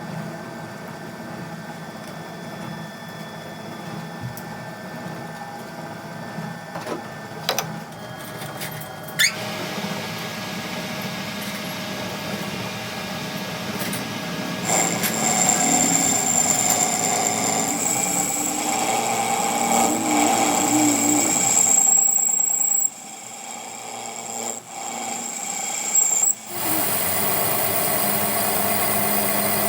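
Electric power tool running in steady stretches, louder with a high whine from about halfway through and again near the end, with a few sharp clicks before it speeds up.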